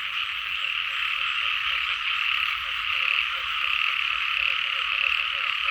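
A dense, steady chorus of many small frogs calling together, the local frogs known in Isan as เขียดหมักแอ้ก, with rapid overlapping notes.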